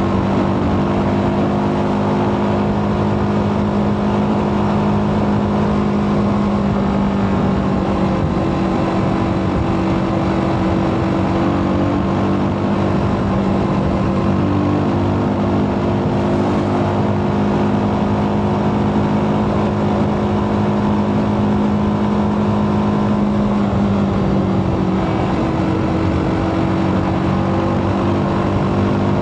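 TVS Apache RTR 310's single-cylinder engine running through its stock exhaust, holding a steady pitch with only slight dips.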